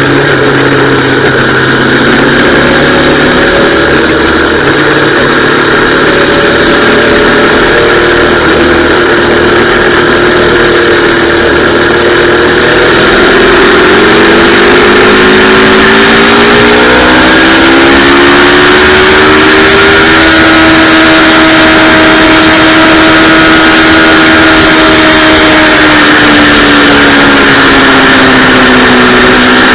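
Yamaha R3's 321 cc parallel-twin engine running hard on a racetrack, its pitch rising and falling as it accelerates, shifts and slows. A rushing hiss grows louder about halfway in.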